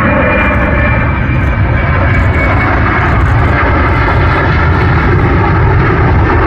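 Jet airliner's engines, loud and steady, with a deep rumble and a faint high whine that falls slightly in pitch over the first few seconds.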